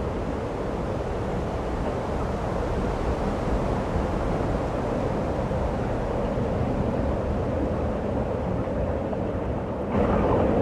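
Steady blizzard wind, a dense rushing noise with a low rumble, stepping up louder near the end.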